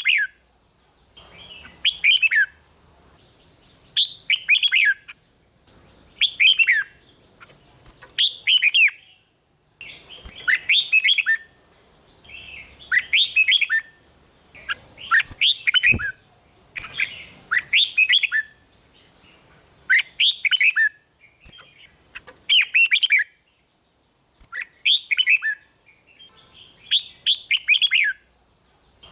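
Red-whiskered bulbul singing: short, bright phrases of quick whistled notes, repeated about every two seconds in a lively song of the kind keepers play to excite caged bulbuls.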